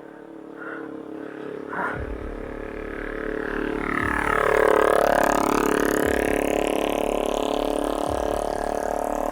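Motor vehicle engine running steadily, growing louder from about three seconds in as a vehicle passes close by, loudest a little past the middle and then staying fairly loud.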